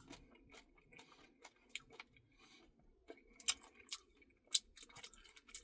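Close-miked eating sounds of someone eating a Blizzard ice cream: soft mouth clicks and wet smacks, with a few sharper clicks in the second half.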